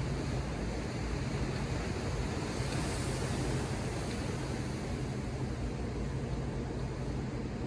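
Ocean surf washing against the shore, a steady rush with one wave swelling and breaking about three seconds in, over a constant low rumble.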